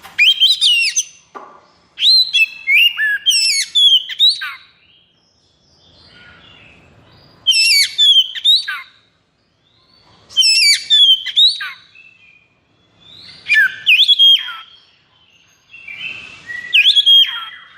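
Oriental magpie-robin (kacer) singing in loud bursts of rapid, whistled notes that sweep up and down in pitch. There are six phrases, each one to two seconds long, with short pauses between them.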